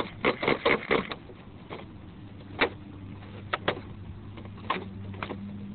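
Start attempt on a fuel-powered R/C monster truck engine: a quick run of sharp clicks, a few scattered clicks, then a low steady hum that sets in about three seconds in as the engine begins to run.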